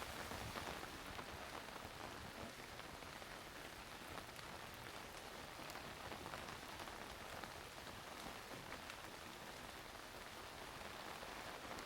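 Steady rain falling and pattering on surfaces, with fine drop ticks.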